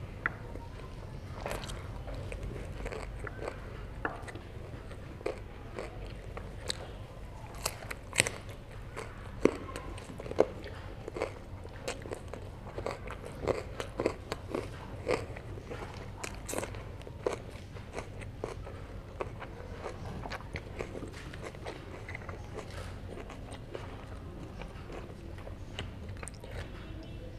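Close-miked biting and chewing of herring: irregular short, sharp clicks and smacks of mouth and food, coming thickest in the middle.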